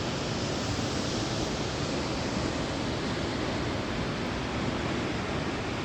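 A powerful waterfall and the river below it rushing: a steady, even noise of falling water with no let-up.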